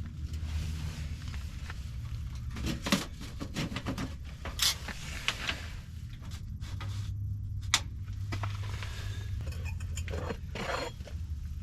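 Scattered knocks, clinks and scrapes of camping gear being handled, over a low steady rumble.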